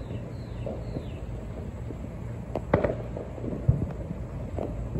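Distant fireworks popping a few times, with the pops coming about halfway through and near the end.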